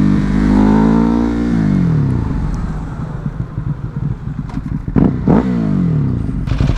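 Ducati Hypermotard's L-twin engine holds steady revs, then drops in pitch about two seconds in as the throttle is rolled off. It settles to a low, uneven running note, with two brief sharp bursts around five seconds in and rougher pulsing near the end.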